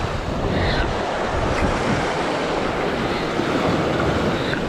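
Ocean waves washing against rocks, with wind buffeting the microphone.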